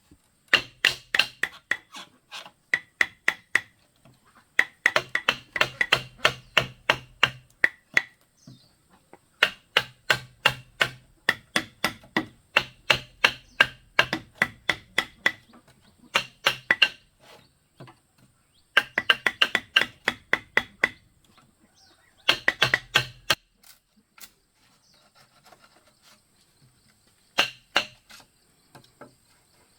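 Bamboo being struck by a hand tool in quick runs of sharp knocks, several a second, broken by short pauses; the last few seconds hold only a few scattered strikes.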